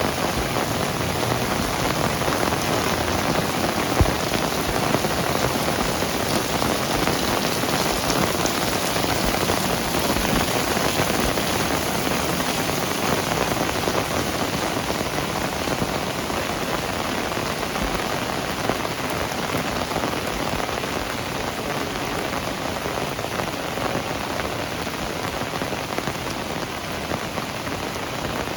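Heavy rain falling steadily, a dense, even hiss of drops on surfaces, with a few louder single drop ticks standing out.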